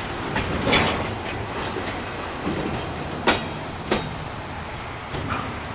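Freight cars of a Canadian National container train rolling past: a steady rolling rumble broken by sharp knocks every second or so, the loudest about three seconds in.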